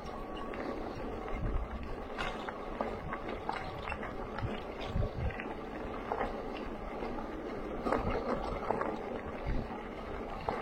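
Steady rolling noise of a bicycle riding on a dirt and gravel trail, with wind on the microphone, a low rumble and scattered small clicks and rattles.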